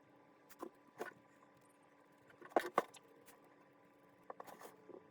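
A few light clicks and knocks, scattered singly and in a small cluster, over a faint steady hum.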